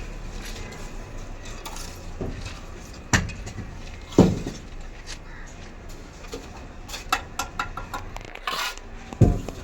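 Steel mason's trowel clinking and scraping against bricks and mortar during bricklaying: a few sharp, ringing knocks spread out, with a quick run of lighter taps about seven seconds in.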